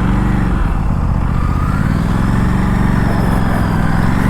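Aprilia RS457's parallel-twin engine pulling away under throttle. The revs climb and hold, then drop near the end as it shifts up a gear.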